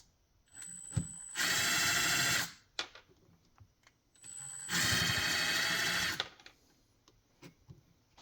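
A handheld electric power tool, drill-like, running at high speed in two bursts, each spinning up and then running steadily for about a second to a second and a half before stopping.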